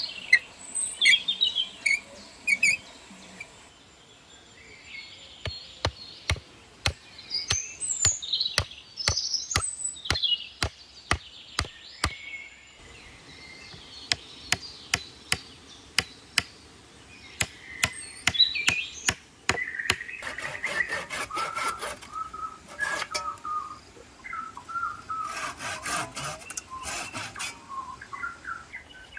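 Birds chirping, with many sharp knocks through the first half and quick repeated rubbing or scraping strokes later on, like hand work on wood.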